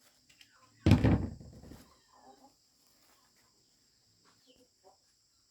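A sudden loud clatter about a second in, fading out over about a second, over a steady high insect drone.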